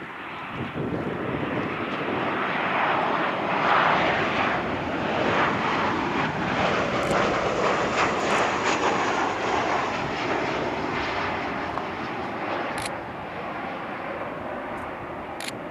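Jet engines of an arriving Boeing 737-800, CFM56-7B turbofans, roaring past as a broad rushing noise. It swells to its loudest about four seconds in, then slowly fades as the airliner moves away.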